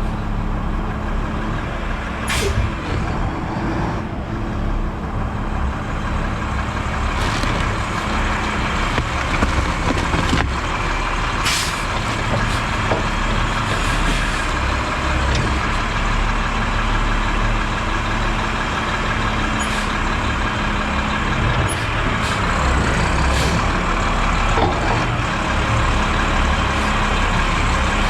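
Automated garbage truck's engine running with its hydraulic packer working to compact a hopper of trash, a steady loud hum with a few sharp knocks and clicks of the load shifting.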